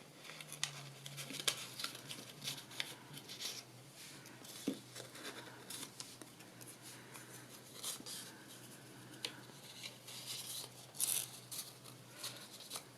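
Paper being handled and worked at the edges: faint, irregular scratchy rustles and light taps, over a low steady hum.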